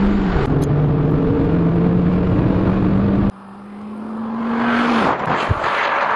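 Volkswagen New Beetle engine heard from inside the cabin, its note dipping about half a second in as a gear is changed on the manual shifter, then holding steady. About three seconds in it cuts abruptly to the car heard from the roadside as it drives towards the microphone, growing louder, with its engine note dropping near the end.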